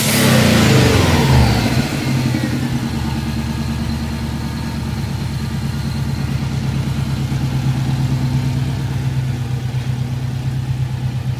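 Old Subaru car engine coming down from a rev, its pitch falling over the first two seconds or so, then idling steadily.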